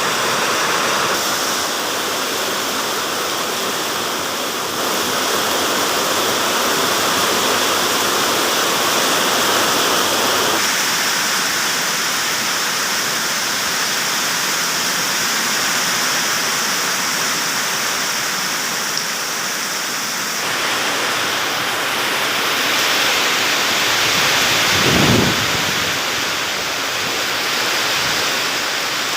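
Heavy rain pouring steadily in a storm with strong wind, a dense, even hiss. Near the end a brief low rumble swells and fades.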